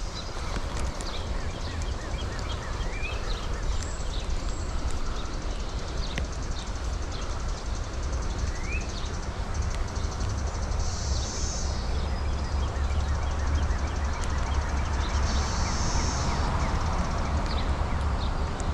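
Steady outdoor noise beside a flowing creek, with wind rumbling low on the microphone. Short bird chirps come now and then, and two brief high insect buzzes come in the second half.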